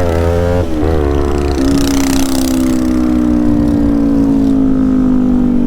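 Motorbike engine running, its pitch wavering at first and then holding steady while slowly falling as it eases off.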